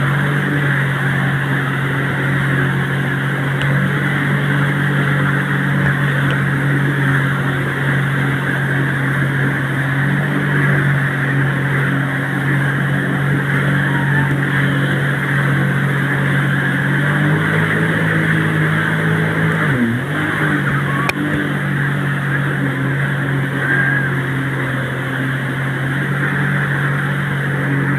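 Motorboat engine running steadily under a rush of water and wind noise. Its pitch drops for a couple of seconds about two-thirds of the way through, then settles back.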